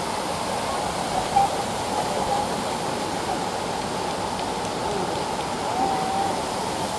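A waterfall of about 20 to 25 feet pouring steadily: a constant rush of falling water.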